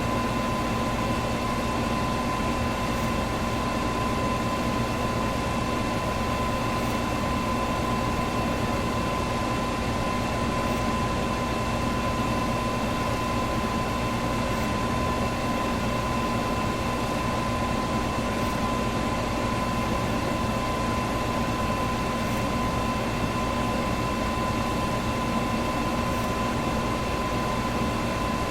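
Electric fan running steadily: a continuous rush of air with a steady tone held over it, never changing.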